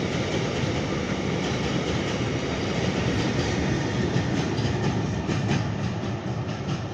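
Container freight train passing at speed, its wagon wheels clattering steadily over the rail joints.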